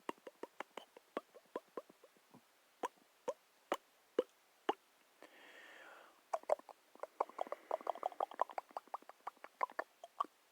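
Soft, irregular clicks and pops, a few each second, with a short hiss about five seconds in and a quicker, denser run of clicks toward the end.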